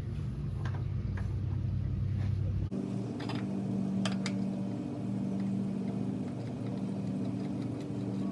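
A steady low mechanical hum that switches abruptly to a slightly higher hum about three seconds in, with a couple of light clicks a few seconds in.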